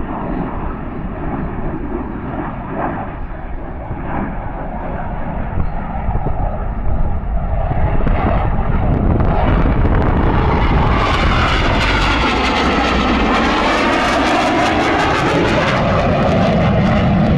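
Eurofighter Typhoon's twin EJ200 engines at high power: a low rumble that grows much louder and hissier from about eight seconds in as the jet comes close, with a sweeping, phasing quality as it passes.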